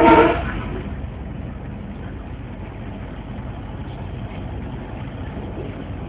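Steady low rumble of a moving train, opening with a brief pitched tone that lasts about half a second.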